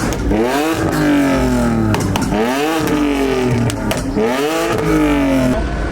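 A car engine revved hard over and over, about four times, each rev climbing quickly in pitch and then dropping back.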